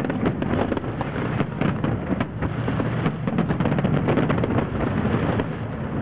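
Fireworks display in a dense barrage: many shell bursts and crackles overlapping in rapid succession, with no gap between them.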